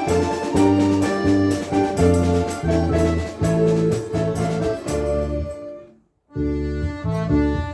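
Orchestra of Russian folk instruments playing a rhythmic piece in accented chords; the music breaks off for a moment about six seconds in, then comes back in.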